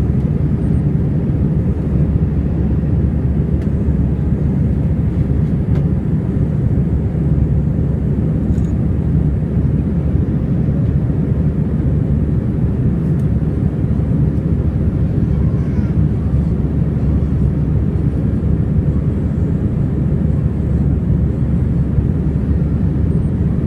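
Airbus A321 airliner's engines and airflow in a steady low rumble during takeoff.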